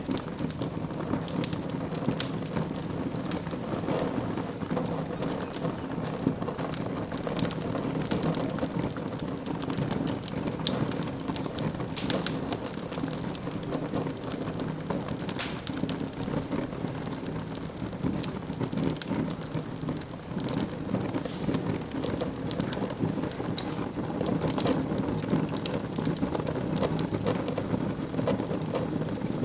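Wood fire in a fireplace crackling, with frequent sharp pops and snaps over a steady low rush of burning.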